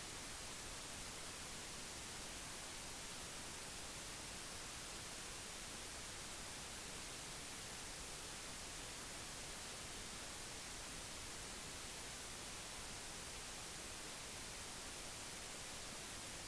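Steady, even hiss of recording noise, strongest in the high end, with no other sound.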